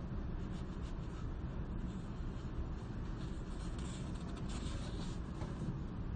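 Library ambience: a steady low background rumble, with writing scratching on paper for a couple of seconds in the middle.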